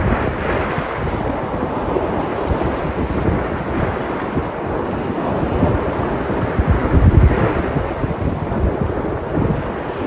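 Sea surf breaking and washing on the shore in a continuous rush, with a stronger low surge about seven seconds in. Wind buffets the microphone.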